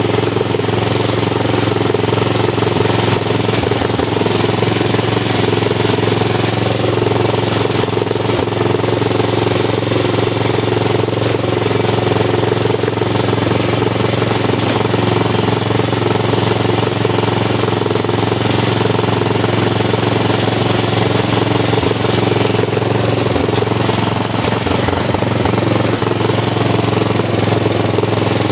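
Dynamark lawn tractor's small replacement engine running steadily through a custom exhaust, holding one even speed without revving.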